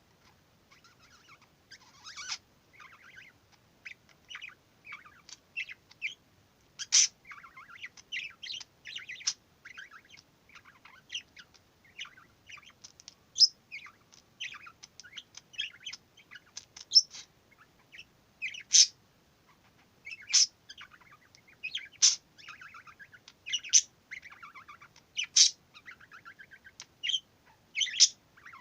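Pet budgerigar chattering: a steady run of rapid warbles, clicks and short squeaks, broken by louder sharp chirps every second or two.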